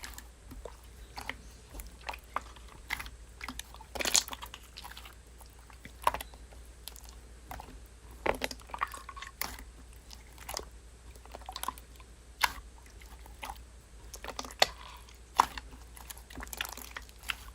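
Slime being squeezed and pressed by hand, giving irregular small crackles and pops with a few louder clicks.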